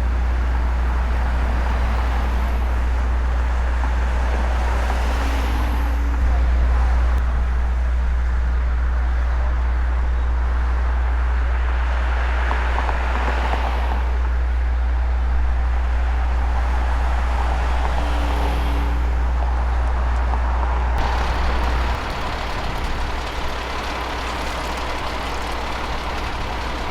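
Road traffic: vehicles passing in slow swells over a steady deep rumble, which eases off near the end.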